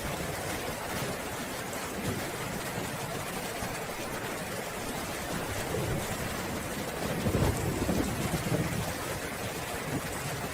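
Steady heavy rain hissing, with a low rumble of thunder swelling up about seven seconds in and fading over the next two seconds.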